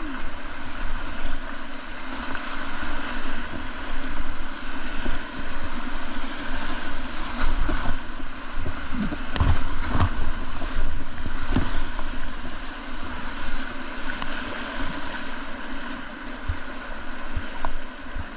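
River water rushing around a kayak, a steady rush, with a few low knocks about halfway through.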